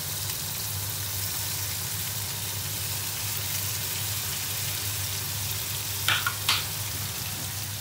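Hot oil sizzling steadily as sliced bell peppers and carrots stir-fry in a hot pan, over a low steady hum. Two short, sharp, louder sounds come about six seconds in.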